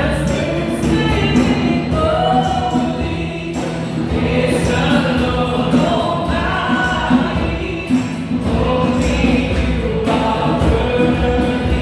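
Choir and worship band performing a gospel praise song: several voices singing together over a steady accompaniment, with percussion keeping a regular beat.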